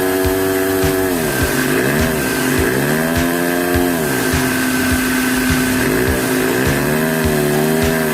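Lego vacuum engine running with a steady mechanical hum whose pitch dips and recovers several times, over a regular ticking.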